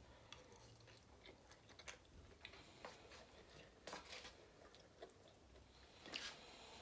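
Faint close-up chewing of a Chipotle bowl of rice, beans, chicken and lettuce: scattered wet mouth clicks and smacks.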